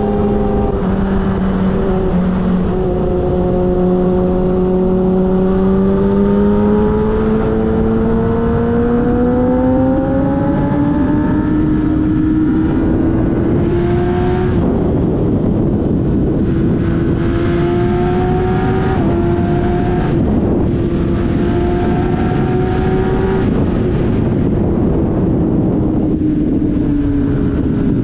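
Sportbike engine pulling at riding speed. Its note climbs slowly over the first half, holds high with a few brief dips, and eases down near the end, over steady wind rush.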